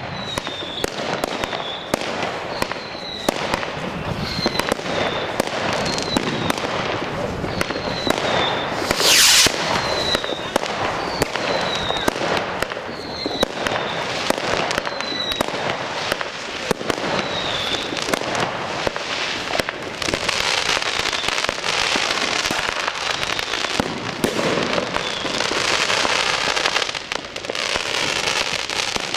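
Fireworks going off: a run of sharp bangs with short high chirps recurring through the first half, a loud hiss about nine seconds in, and dense crackling in the last third.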